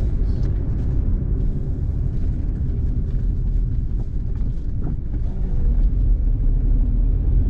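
Steady low road and tyre rumble inside a moving car's cabin, with faint scattered ticks of rain on the car.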